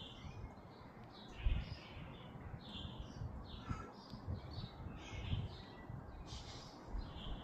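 Backyard hens making many short, soft calls one after another, with a dull low knock about a second and a half in.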